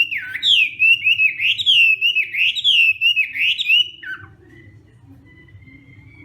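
Chinese hwamei (họa mi) singing a loud run of repeated, sweeping whistled notes, about two a second, that stops about four seconds in; a faint thin high note follows.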